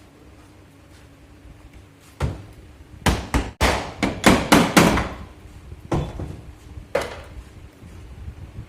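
Hammer blows during dent repair on car bodywork: one knock, then a quick run of about ten hard strikes, then two single knocks.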